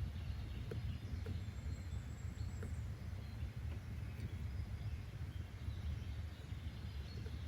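Nature-sounds ambience: a steady low rumble with faint, scattered bird chirps and a few small clicks.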